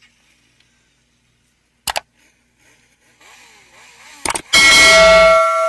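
Two sharp clicks, then a loud bell-like metallic strike that rings with several steady tones for about a second and cuts off abruptly.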